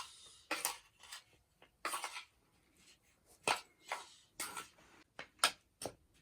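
Around ten irregular clinks and knocks of cooking utensils and dishes being handled.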